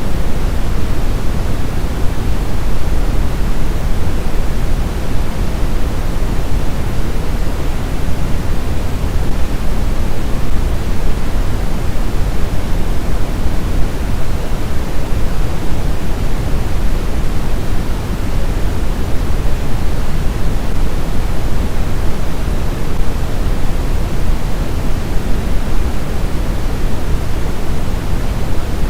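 Steady sleep-aid white noise: an even, unbroken hiss that is heavier in the low end, like pink noise.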